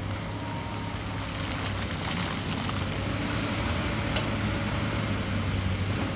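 Excavator's diesel engine running steadily under load, with a faint whine over it and a few sharp ticks.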